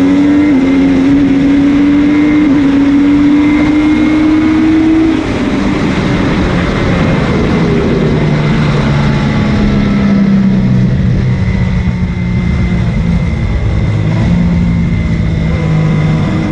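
MV Agusta F3's three-cylinder engine heard onboard over wind noise. The engine note climbs steadily in pitch for about five seconds, then drops to a lower, steadier note as the bike eases off.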